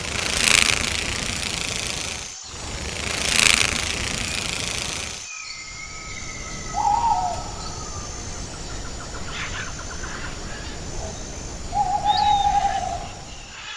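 A bird calling twice, two short steady calls about five seconds apart over steady outdoor background noise. Before them, in an earlier clip, come two loud rushes of noise.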